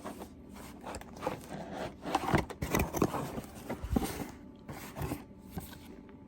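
Hands handling the bird camera's parts and packaging: irregular scraping, rubbing and small knocks, busiest in the middle.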